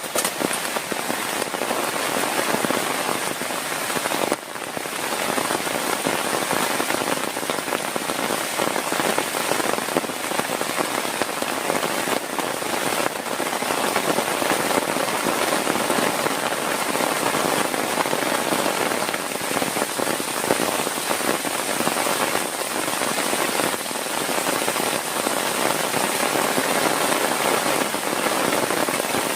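Heavy rain falling steadily on a surface, a dense crackle of drops, dipping briefly about four seconds in.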